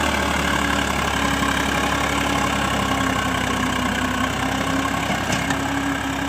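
Sonalika 740 tractor's diesel engine running steadily and hard under load, pulling to get a stuck tractor out.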